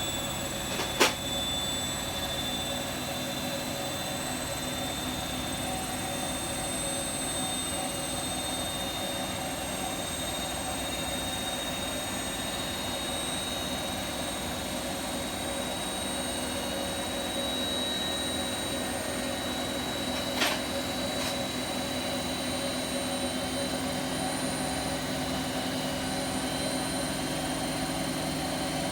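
Bosch Vario Perfect WAK28260 washing machine on a high-speed spin, a steady rushing hum with a high whine on top, broken by a sharp click about a second in and another about twenty seconds in. It is being tested for worn drum bearings, but the running is not that loud.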